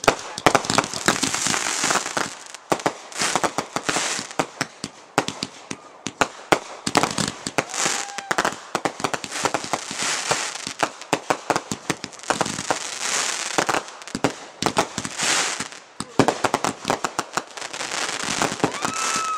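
Consumer firework cakes firing in rapid succession: a dense, continuous barrage of sharp bangs and crackling with hissing bursts.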